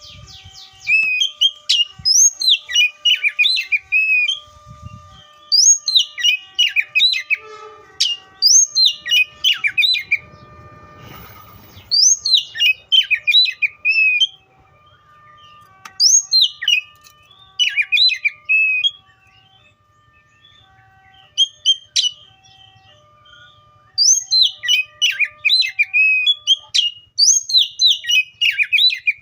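Oriental magpie-robin singing: repeated loud phrases of quick rising and falling whistles, each about two seconds long, with short pauses between them and one longer pause about two thirds of the way through.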